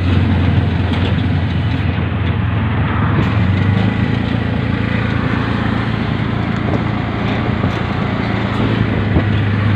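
Steady drone of a small motor vehicle's engine with road and traffic noise, heard while riding along in town traffic.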